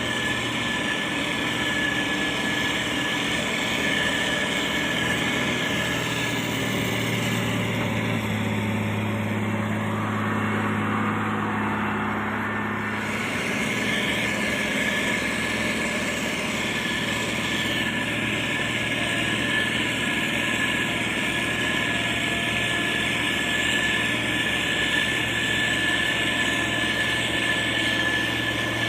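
Motor grader's diesel engine running steadily, with a high whine over it. About a quarter of the way in the engine note drops and the whine fades for about five seconds, then both return.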